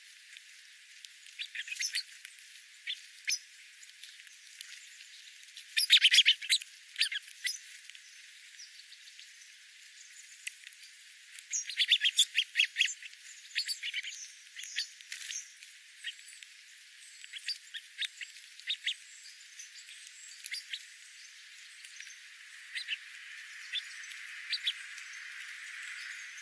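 Small wild birds chirping in quick, short notes that come in clusters, loudest about six seconds in and again about twelve seconds in, with scattered single chirps between.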